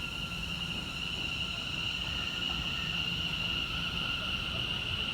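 Class 720 electric multiple unit drawing in to a stop at the platform: a steady high-pitched whine with a fainter lower tone over a low rumble.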